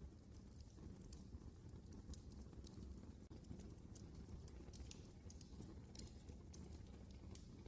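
Wood fire crackling in a fireplace: scattered, irregular sharp pops and snaps over a low, steady rumble.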